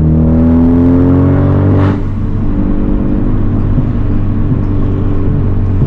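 Turbocharged four-cylinder of a Honda Civic Type R with a catless downpipe and resonator delete, accelerating with a rising pitch for about two seconds. A brief burst of noise follows as the throttle lifts, then it settles to a steadier, quieter run.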